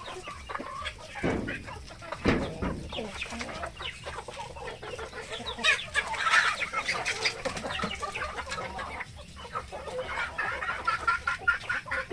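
Filipino native chickens clucking, many short calls from several birds overlapping, busiest about six to seven seconds in. Two dull low thumps come about one and two seconds in.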